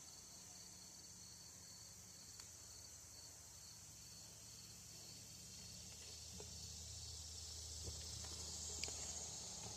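Quiet background: a steady high-pitched hiss and a low hum, with a few faint clicks of small parts being handled in the second half.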